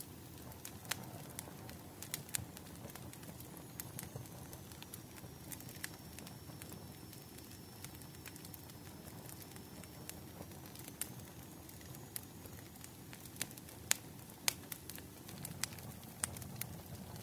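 Wood fire crackling: irregular sharp pops and snaps over a low, steady rumble of burning, with a faint thin high whistle through the middle.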